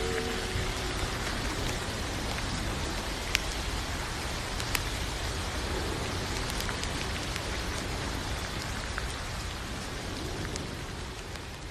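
Steady rainfall, an even hiss of rain, with a couple of sharper drop impacts about three and five seconds in. It fades toward the end.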